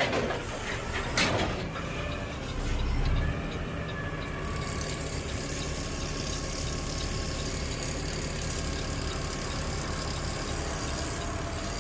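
Garbage truck engine running steadily, with a single sharp knock about a second in.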